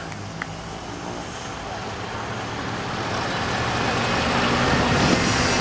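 Diesel pulling truck's engine running under load, with a steady rumble and a wash of noise that grows steadily louder.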